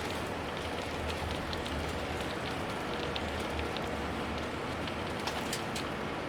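Cabin noise inside a moving rail-replacement bus: a steady low engine drone and tyre hiss, with scattered small ticks and rattles.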